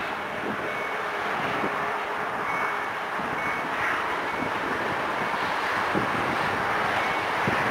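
EP07 electric locomotive with an Intercity train approaching from a distance: a steady rushing rumble that grows slightly louder, with a faint high tone coming and going.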